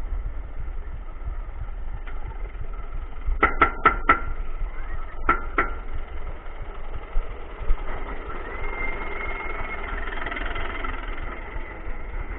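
Inverted roller coaster ride machinery running with a steady rumble. A quick run of four sharp clacks comes about three and a half seconds in, two more follow a couple of seconds later, and a whine rises and holds in the second half.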